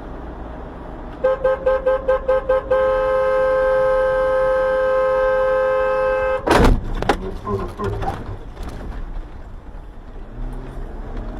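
A car horn beeps in quick short toots, about five a second, for a second and a half, then is held down for about four seconds. A loud bang then follows, most likely a collision, with a second smaller knock and some clattering after it.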